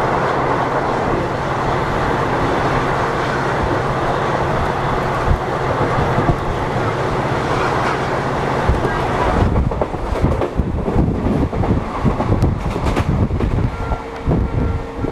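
Train running at speed: a steady rumble with a low hum. About nine and a half seconds in, it gives way to gusty wind buffeting the microphone.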